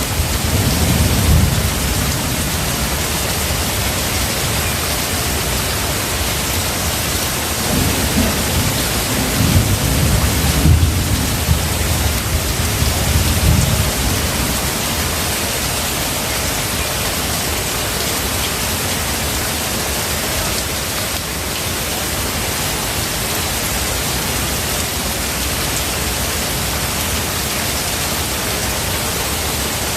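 Heavy, steady rain with rolls of thunder rumbling low in the first couple of seconds and again from about 8 to 14 seconds in. After that only the rain goes on.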